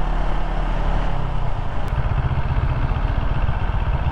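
CFMoto CLX 700 parallel-twin engine running steadily at low road speed in traffic, with a rapid low pulsing.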